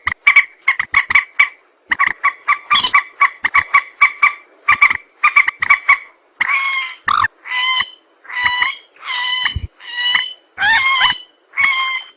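Recorded rail (burung mandar) calls played as a bird-trapping lure. A fast series of short clipped notes gives way, about six seconds in, to a run of longer, evenly pitched calls, roughly one and a half a second.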